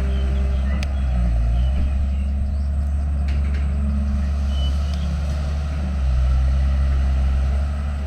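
Diesel engine of a heavy earthmoving machine running under varying load, its low drone shifting in pitch and growing louder about six seconds in.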